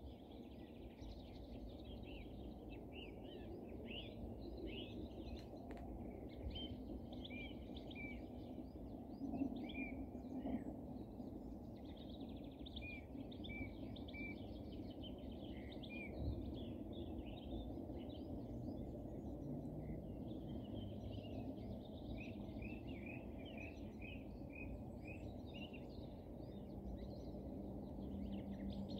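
Small birds chirping and singing in many short notes throughout, over a steady low background rumble.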